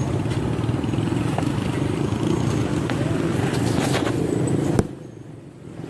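A motor vehicle's engine running close by, a steady low rumble, which cuts off abruptly with a click near the end.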